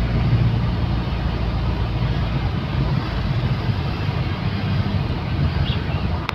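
1991 Ford Laser Gala on the move: a steady low engine hum with an even rush of road noise.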